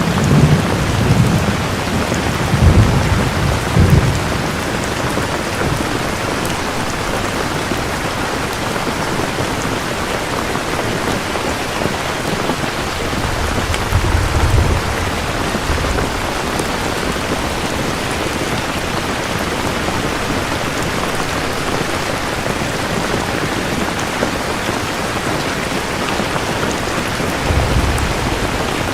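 Steady heavy rain with low rolls of thunder: a rumble in the first few seconds, another about halfway through and a shorter one near the end.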